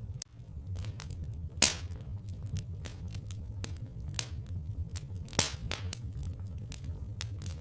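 Wood fire crackling: irregular sharp pops and snaps, with louder pops about a second and a half in and again past five seconds, over a steady low rumble.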